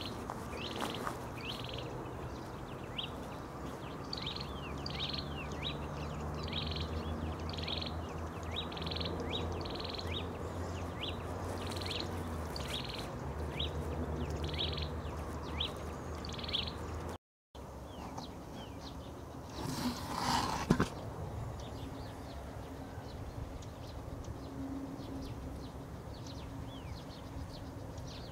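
Wild bird repeating a short chirp over and over, a little more than once a second, over a steady low hum. After a short dropout about two-thirds in comes a brief louder noise, then fainter scattered chirps.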